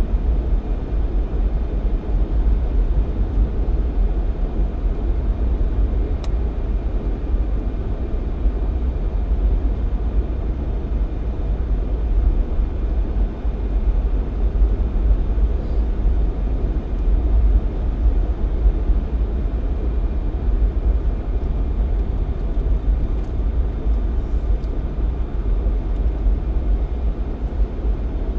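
Jeep Cherokee XJ driving at a steady pace: an even low rumble of engine and tyre noise that holds without change.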